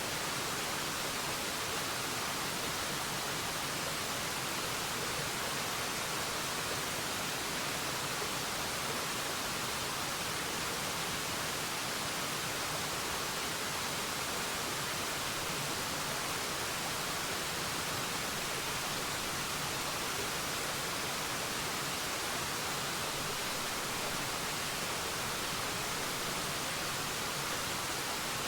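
Waterfall, water falling in a steady, even rush with no single splashes standing out.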